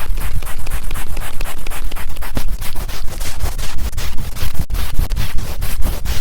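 A brush scratched fast and hard across a TASCAM recorder's microphone, about six quick strokes a second, loud and close.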